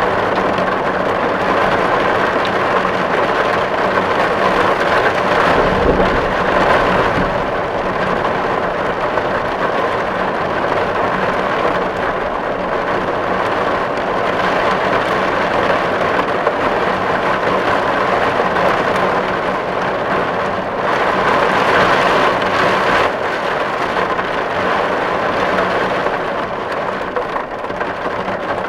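Steady, heavy rain drumming on a tin roof, swelling louder a few times, about six seconds in and again a little past twenty seconds.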